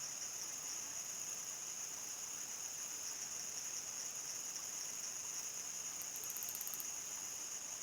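A chorus of crickets trilling steadily in one unbroken high-pitched drone. About six seconds in, a brief, faster pulsed trill from another insect sounds higher above it.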